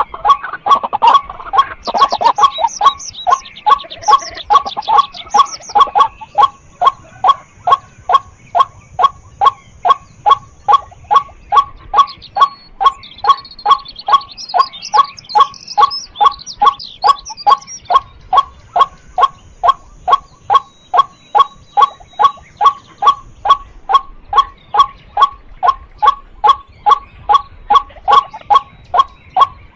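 White-breasted waterhen giving its monotonous repeated 'kwak' call, short low notes at about two a second without a break. Higher chattering bird notes come in twice over it.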